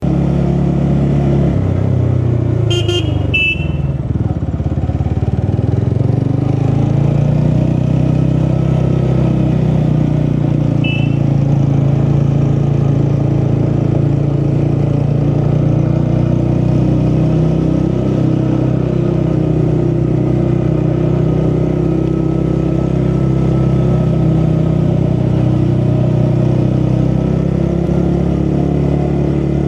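Vehicle engine running steadily while travelling on the road. There are brief high-pitched beeps about three seconds in and again around eleven seconds.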